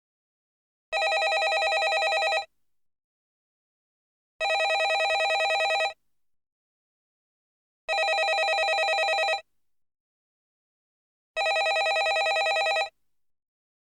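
Landline telephone ringing: four rings of about a second and a half each, with about two seconds of silence between them, each ring a fast, fluttering trill.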